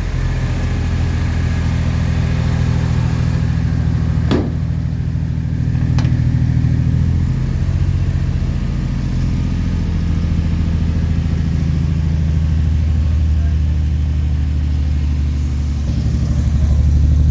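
1969 Jeep Willys CJ-5 engine running at a steady, smooth idle, freshly cold-started after months of sitting, growing a little louder near the end. Two sharp clicks sound about four and six seconds in.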